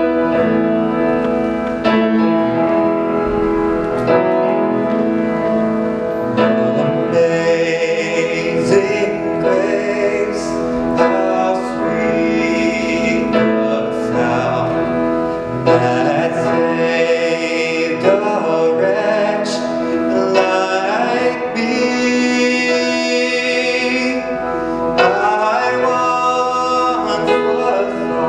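Choir singing a slow hymn arrangement with piano accompaniment.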